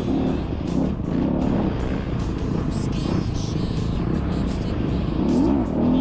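Dirt bike engine revving up and down, with music with a steady beat playing over it.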